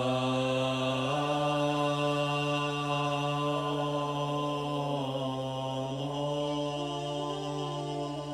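A man's voice chanting a mantra in long, sustained tones. The pitch steps up about a second in and shifts slightly lower around five seconds.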